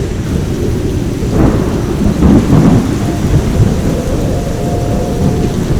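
Squall wind buffeting the microphone, with heavy rain: a loud low rumble that surges about a second and a half in and again around two seconds in. A thin steady whistle sounds for a couple of seconds from about three seconds in.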